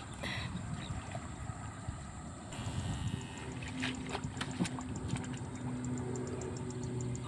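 Outdoor water and wind noise with a steady low hum setting in about halfway through, a fast, even high ticking from a little before that, and a few short splashy clicks.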